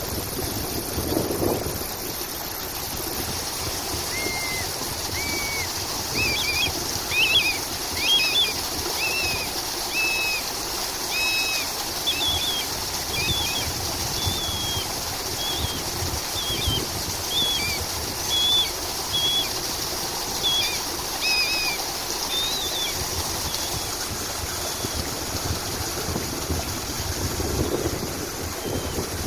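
Small songbird giving many short, repeated chirps over a steady rush of water. The chirps start about four seconds in and die away several seconds before the end.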